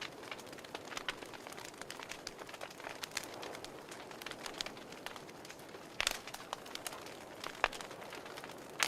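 Wood fire crackling: a steady low hiss with irregular sharp snaps and pops, a louder pop about six seconds in and another near the end.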